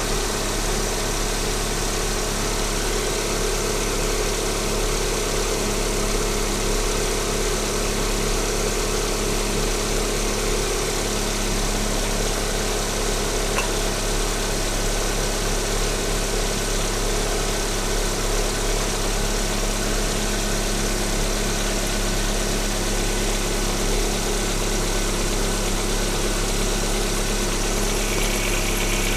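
Lada VAZ-21127 16-valve four-cylinder engine idling steadily from a cold start, with a fine rapid ticking from the hydraulic lifters, which tap a little while the engine is cold. Its tone shifts slightly near the end.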